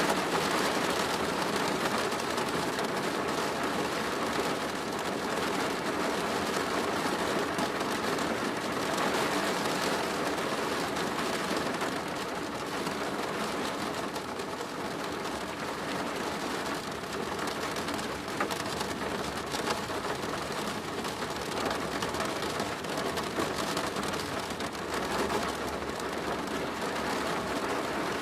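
Steady rain drumming on a plastic roof, a dense patter of many drops.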